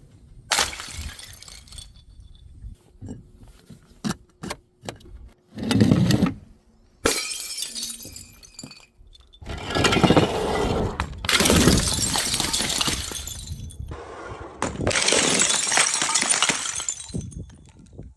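Glass bottles smashing one after another, each break a sudden crash followed by the crunch and tinkle of shards. The loudest breaks come in a cluster around the middle and second half, with a heavier dull thud about six seconds in.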